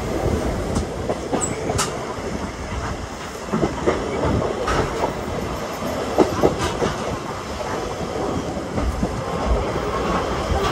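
Steam train's passenger coach running along the track, heard from an open window: a steady rumble and rattle, with the wheels knocking over rail joints at irregular moments.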